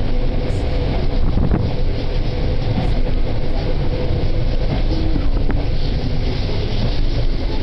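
A moving train running steadily, with a continuous low rumble and wind buffeting the microphone.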